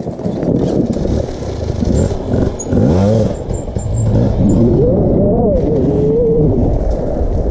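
Dirt bike engines revving hard on a climb, the pitch sweeping up and down in bursts, most clearly about three seconds in and again around five to six seconds.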